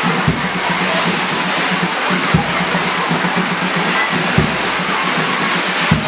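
Heavy rain hissing steadily, with a marching band's music underneath and a bass drum thumping about every two seconds.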